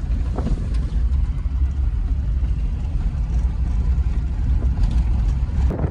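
Car in motion: a steady low road and engine rumble, with a couple of faint ticks about half a second in.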